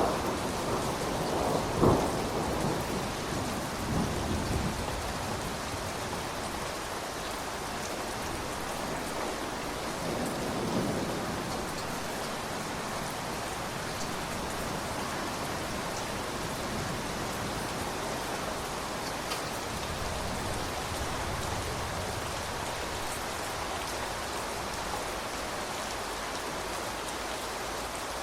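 Steady rain falling, with thunder rumbling and dying away over the first few seconds: a sharp clap about two seconds in, and a fainter low roll around ten seconds in. After that, rain alone.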